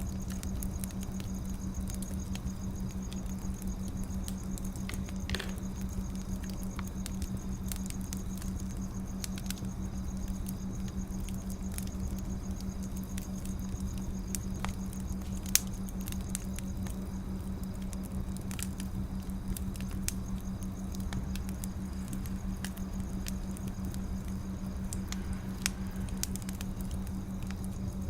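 Wood fire crackling with scattered small pops, a sharper pop about halfway through and another near the end, over a low steady hum.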